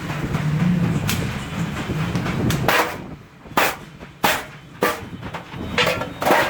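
Stainless steel sheet being worked by hand. A low steady rumble runs for the first couple of seconds, then about six sharp, irregularly spaced metal knocks follow.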